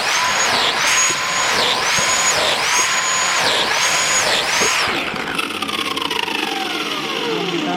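Woodworking power tool running at high speed, its whine dipping in pitch under load about once a second. About five seconds in it is switched off and winds down in falling pitch.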